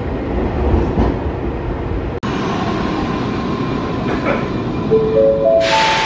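Nankai electric commuter train running out of the platform with a steady rumble of wheels and motors; after a sudden cut, a parked train's steady high whine, then a short run of tones stepping upward and a sharp hiss near the end.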